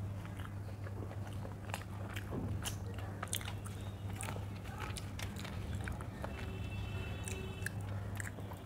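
Close-up chewing of handmade roti and egg curry, with wet mouth smacks and short clicks, while fingers tear the soft roti. A steady low hum runs underneath.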